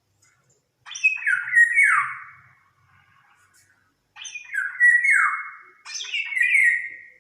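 A songbird singing: three phrases of quick descending, sweeping notes.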